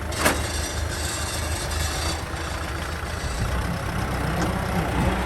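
Kubota M6040 SU tractor's diesel engine running steadily at low speed, with one sharp knock about a quarter second in.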